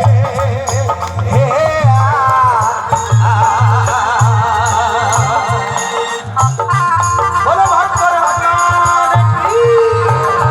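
Rajasthani folk bhajan music: a wavering melody line over a steady drum beat and evenly spaced ticks of small cymbals.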